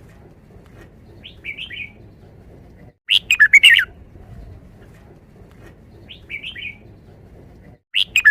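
Red-whiskered bulbul singing a loud, fast phrase of whistled notes, the five-syllable 'wild' song style, about three seconds in and again near the end, with softer chirps in between.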